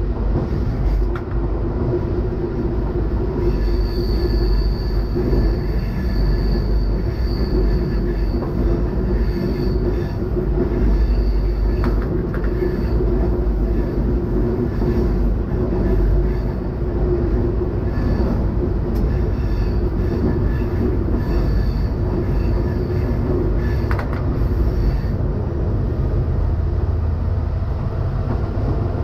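Silver Fern diesel railcar running along the line, heard from inside the driver's cab: a steady low drone of engine and wheels on rail. A thin high squeal of the wheels on a curve comes in a few seconds in and fades out near the end.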